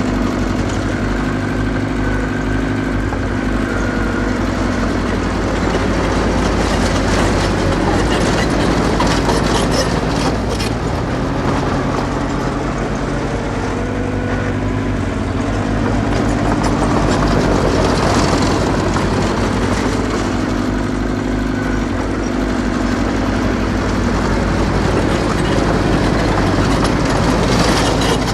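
Small crawler bulldozer's diesel engine running under load, its pitch rising and falling as it works, with clanking from the steel tracks.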